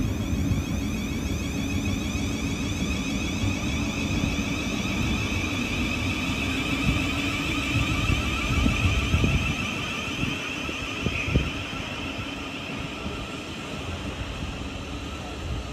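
Electric train running through the station, a low rumble with a steady high whine above it; the rumble fades about two-thirds of the way through while the whine carries on, with one short knock near the end.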